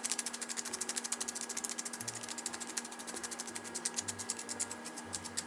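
Hand-turned pepper mill grinding black pepper: a fast, even run of ratcheting clicks, about ten a second.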